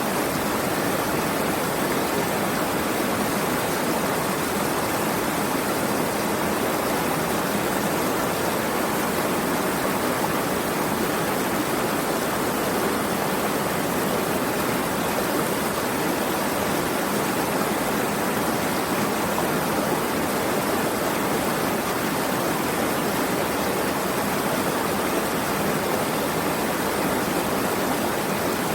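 Running water rushing steadily: an even, unbroken hiss with no separate splashes or drops standing out.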